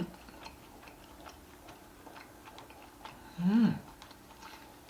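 Faint, irregular ticking mouth sounds of someone chewing salt-grilled pork rib meat, with a short hummed "mmm" that rises and falls about three and a half seconds in.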